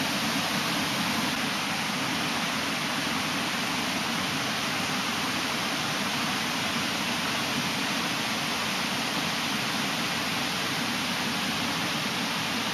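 Mountain stream rushing steadily over its bed, a constant even hiss of flowing water.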